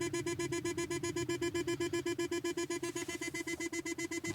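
1997 Jaguar XK8's warning beeper sounding a rapid, even run of short beeps. It is typical of the car not registering that the shifter is in park.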